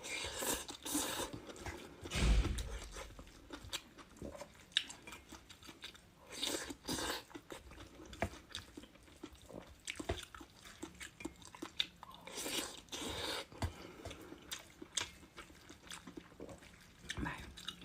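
A person chewing food close to the microphone, with irregular crunching bites and mouth clicks.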